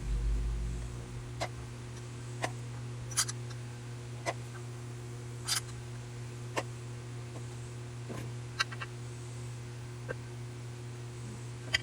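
Scattered light clicks and taps, roughly one a second and irregular, over a steady low hum.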